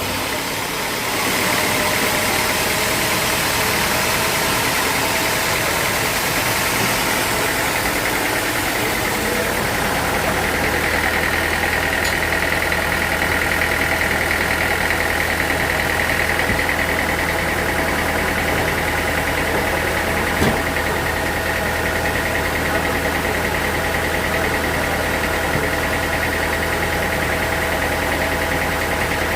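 Sawmill machinery running steadily: a constant low motor hum under a high, steady saw whine, with one sharp click about 20 seconds in.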